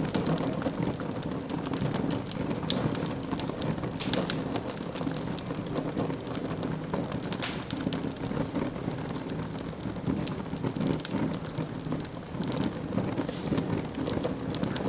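Wood fire burning in a fireplace: a steady low rushing of flames with constant small crackles and a few sharper pops, the loudest about three and four seconds in.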